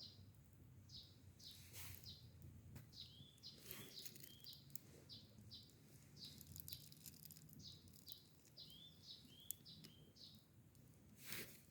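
Faint small birds chirping, short high calls repeated about two a second and each dropping slightly in pitch, with scattered faint clicks.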